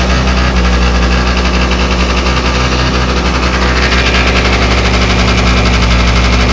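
Scooter engine idling steadily, having just caught on a cold start at around freezing.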